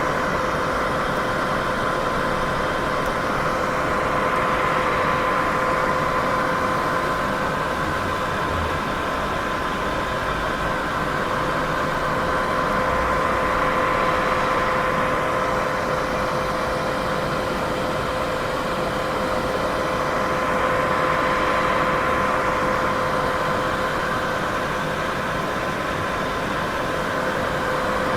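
Steady white noise for sleep masking, a smooth even hiss with two faint steady tones under it, swelling gently and easing back every eight seconds or so.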